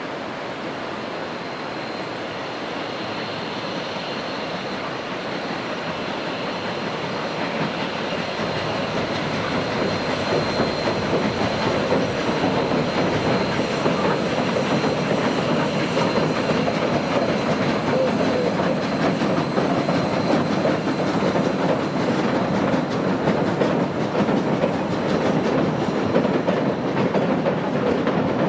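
Narrow-gauge train of the Durango & Silverton line approaching and running past, its wheels clacking over the rail joints. It grows louder over the first ten seconds or so and then stays loud, with a thin high whine that fades out about halfway through.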